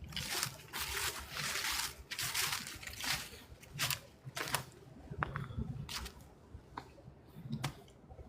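Footsteps crunching through dry fallen leaves on a trail, an uneven walking pace of roughly one step every half second to a second.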